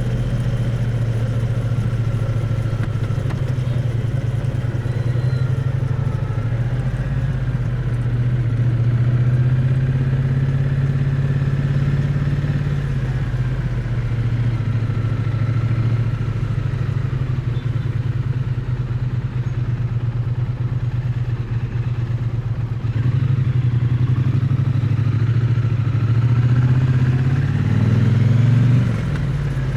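Triumph Bonneville T100's parallel-twin engine and exhaust running steadily under way, picked up close to the exhaust, with the engine note drifting gently up and down. Near the end the revs climb briefly, then fall away.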